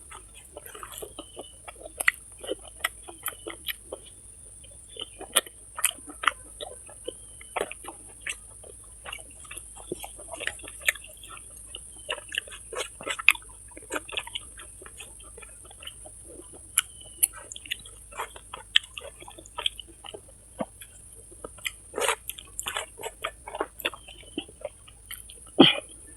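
Close-miked chewing and mouth smacking of someone eating rice with meat and fried small fish: a run of irregular smacks and clicks, several a second, with a louder smack near the end, over a steady high hiss.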